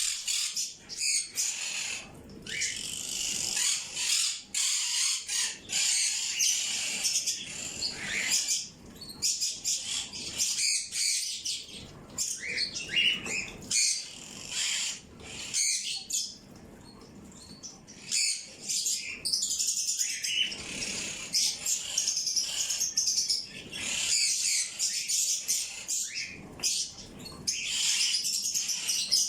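Many small birds chirping and chattering at once in a dense, overlapping flock chorus, easing into a short lull about halfway through before picking up again.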